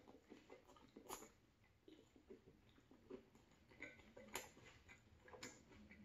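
A person chewing a mouthful of soft beef taco: faint, irregular wet mouth sounds, with a few sharper clicks about a second in, then around four and a half and five and a half seconds in.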